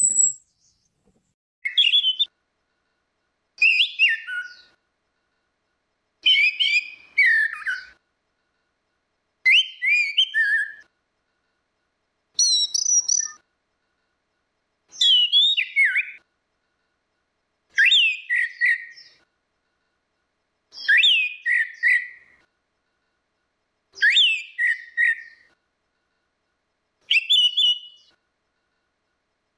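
Orange-headed thrush singing: short, varied whistled song phrases of about a second each, repeated roughly every three seconds with silence between.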